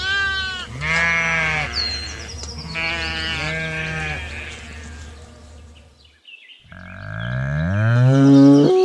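Lambs bleating several times, each call wavering. After a short break about six seconds in, a louder, deeper call rises in pitch.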